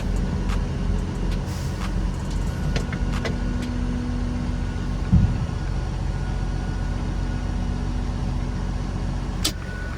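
Dump truck's diesel engine running steadily, with a short knock about five seconds in and a sharp click near the end.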